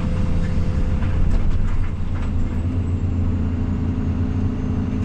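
Diesel engine of a Case CX220E hydraulic excavator running steadily under work, with a few faint knocks.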